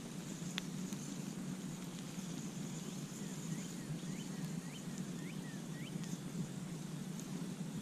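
Campfire crackling, with one sharp pop about half a second in and a few fainter snaps, over a steady low rumble. From about three to six seconds in, a bird calls a quick run of about six short rising chirps.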